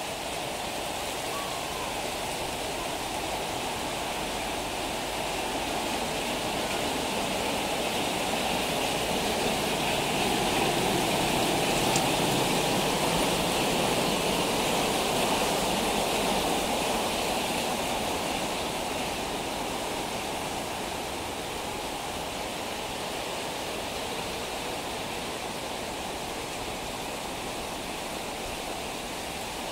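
Heavy rain pouring down steadily. It swells louder about a third of the way in, then eases back a little later.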